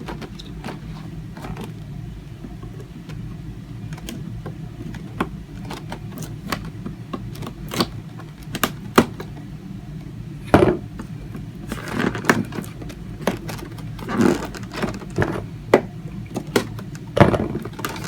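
Packaging being handled during an unboxing: scattered clicks, taps and rustles of plastic and cardboard, busier and louder in the second half. A steady low hum runs underneath.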